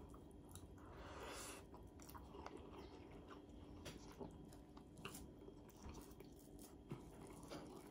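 Faint chewing of a mouthful of rice and fried salmon, with scattered soft mouth clicks.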